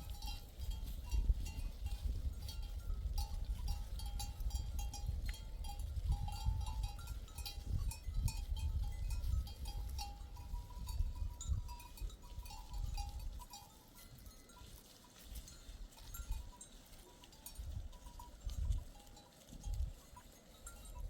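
A flock of sheep and goats with their neck bells clinking and jingling irregularly. A low rumble sits under it for the first two-thirds and then fades to gusts.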